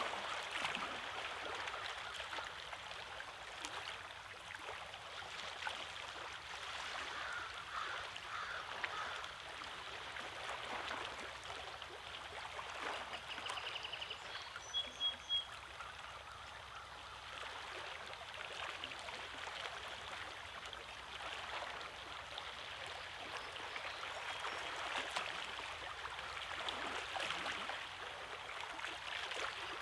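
Small lake waves lapping and washing over rocks, with gulls calling now and then. A few short, sharper splashes come about halfway through.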